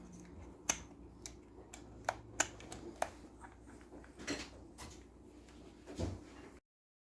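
Irregular light clicks and taps of small hard objects being handled, with several sharper knocks and a heavier knock near the end, over a low steady hum. The sound cuts off abruptly shortly before the end.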